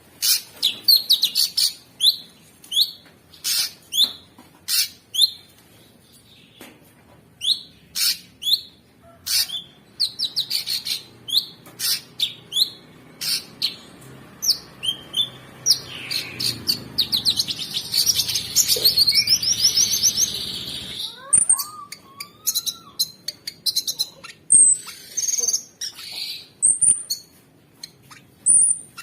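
Cucak sungkok, a bulbul, singing loudly. It gives a string of sharp, steeply sliding chirps at about two to three a second, then a dense run of rapid chatter in the middle, then scattered high whistles toward the end.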